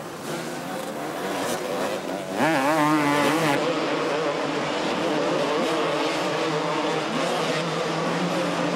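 Two-stroke motocross bike engines racing. About two seconds in, a louder engine rises and wavers quickly up and down in pitch for about a second, then settles into a steadier drone of engines at speed.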